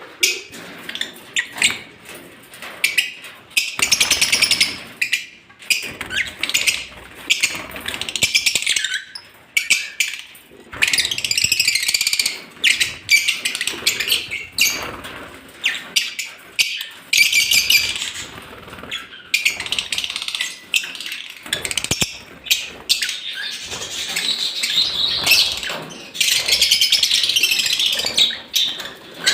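A colony of lovebirds chattering with shrill, overlapping chirps and calls, broken by many sharp clicks and rustles.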